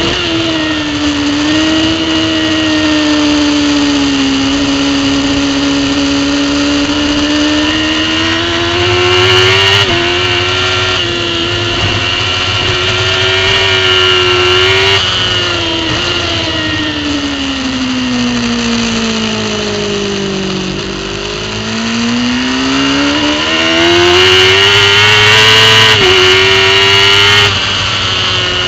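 Racing superbike engine heard from an onboard camera, running hard on track. Engine speed changes continuously, with a few abrupt pitch steps at gear changes. About two-thirds of the way through, the pitch falls slowly for several seconds and then climbs again.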